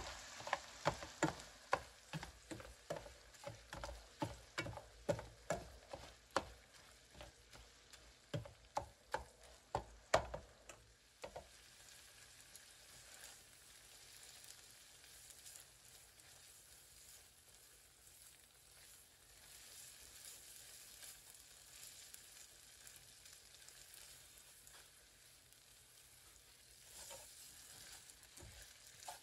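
Breakfast food frying in a pan with a faint, steady sizzle. For the first eleven seconds or so, a utensil stirs and taps with sharp clicks about twice a second, then stops, leaving only the sizzle.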